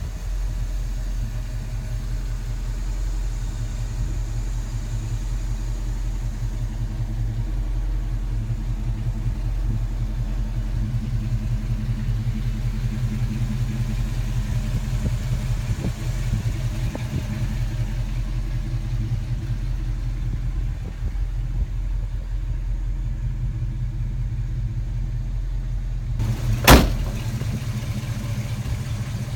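1972 Chevrolet K10's 350 V8 with dual exhaust running steadily at an even pitch. A single sharp click near the end.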